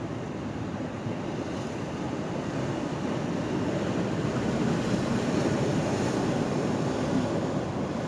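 Ocean surf washing around a pier: a steady rushing wash that slowly swells to a peak past the middle and eases off near the end.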